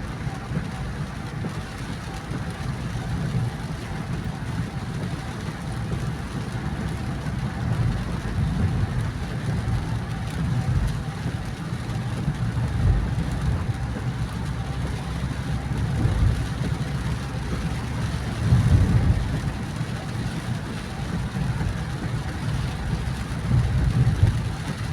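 Car driving on a rain-soaked road: a steady low rumble of tyres and engine with a hiss of water and spray, swelling briefly a few times.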